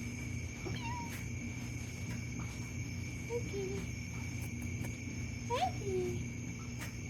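A domestic cat giving a few short chirping meows, the loudest one rising and then falling in pitch near the end, over a steady background hum.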